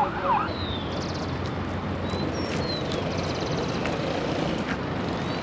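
Steady low rumble of road traffic, with a few short high chirps from birds.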